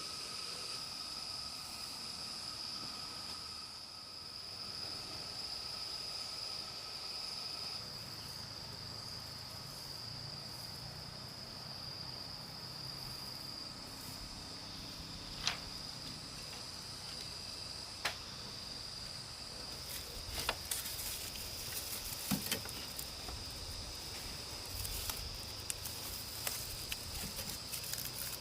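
Insects keep up a steady, high-pitched buzz. Two sharp clicks come about halfway through, and scattered small clicks and knocks follow in the last third.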